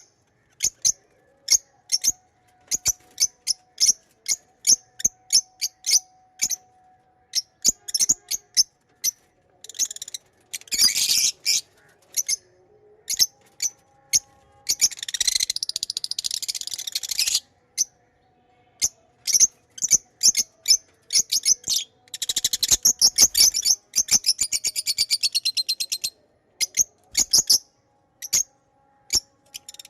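Pet lovebirds chirping: a steady string of short, high chirps, broken three times by longer bursts of rapid chattering.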